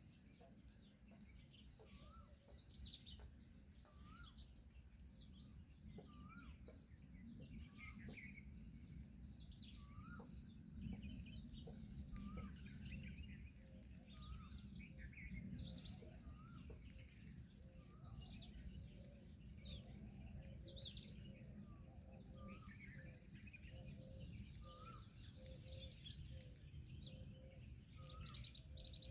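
Faint chorus of many small birds chirping and trilling, with one short rising note repeating every second or two over a low background rumble.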